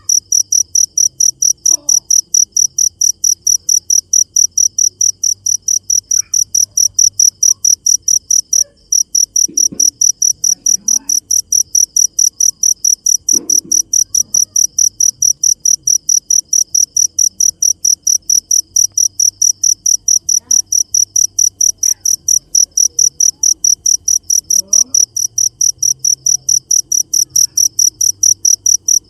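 A cricket chirping steadily, about three to four high chirps a second, with one brief break near the middle.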